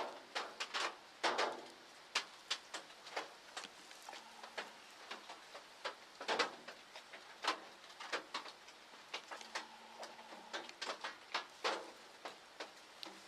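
Raindrops dripping and tapping on the hunting blind: irregular sharp taps, one to several a second and uneven in loudness, over a faint hiss.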